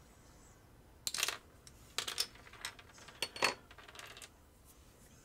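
Small hard clicks and clinks of a plastic action figure's parts and its small metal screw being handled and set down on a hard surface. They come in about five quick clusters.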